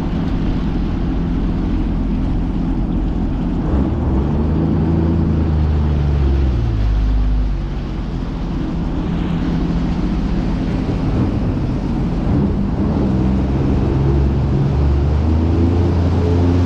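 Sea-Doo jet ski engine running under way on the water. The engine note drops about seven seconds in as the throttle eases off, then rises again near the end.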